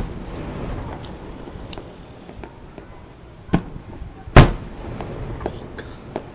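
Fireworks display: sharp booms, a smaller one about three and a half seconds in and the loudest just after four seconds, each with a rumbling echo, and scattered small cracks in between.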